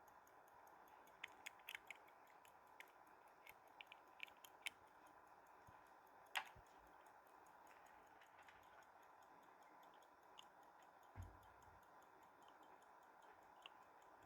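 Faint, rapid, even ticking of a watch's running movement. Over it come small metallic clicks as the winding stem is fitted back into the cased movement, one sharper click about six seconds in and a soft thump near eleven seconds.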